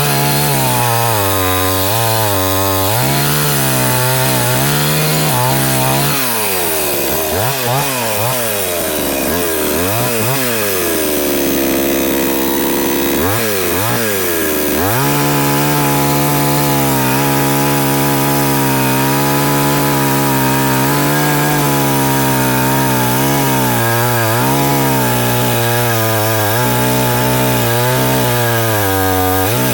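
Salemmaster two-stroke gasoline chainsaw running, its engine speed rising and falling over and over. About eleven seconds in it settles to a lower steady pitch. A few seconds later it climbs again and holds a steady high speed for the rest.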